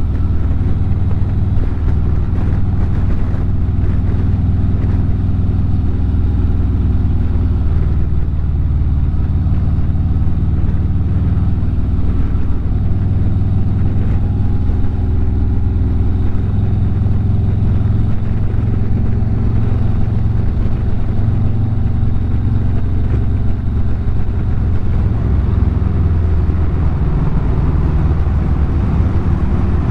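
Harley-Davidson motorcycle engine running steadily at highway cruising speed, a continuous low drone with no shifts or revving.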